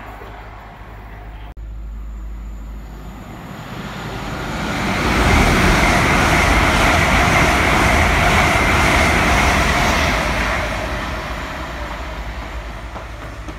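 Electric express train of Mk4 coaches passing through at speed: a rush of wheel and rail noise that builds over a couple of seconds, holds loud for about five seconds, then fades away.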